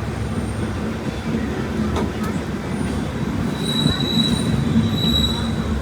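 Passenger train running on the rails with a steady low rumble, its wheels squealing in two short high-pitched spells in the second half, with a single sharp click about two seconds in.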